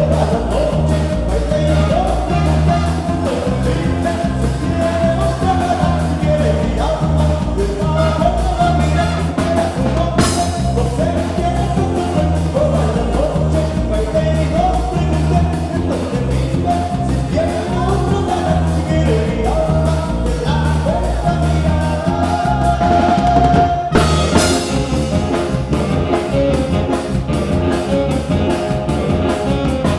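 A band playing a song with a sung melody over drum kit and bass keeping a steady beat, with loud accents, likely cymbal crashes, about ten seconds in and again near twenty-four seconds.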